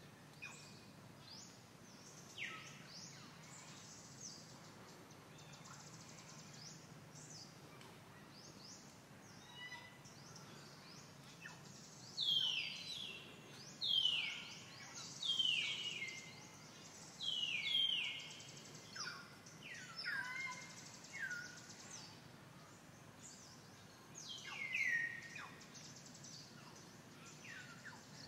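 Birds calling: a run of short downward-sliding whistled notes, loudest and most frequent from about twelve to eighteen seconds in and again around twenty-five seconds, over faint steady outdoor background noise.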